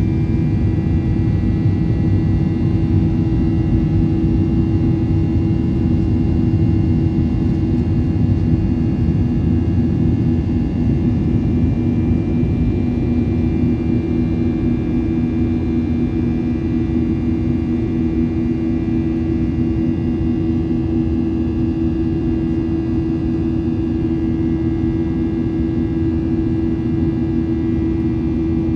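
Boeing 737-900ER's CFM56-7B jet engines heard inside the cabin as a steady, loud rumble with a constant hum of two low tones and a fainter higher whine, with no change in pitch.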